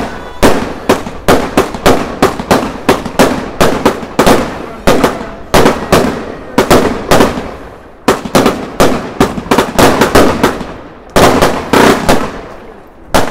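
A rapid string of sharp firework bangs, about two to three a second, each with a short echoing tail. The bangs ease briefly twice, about two-thirds of the way through and near the end.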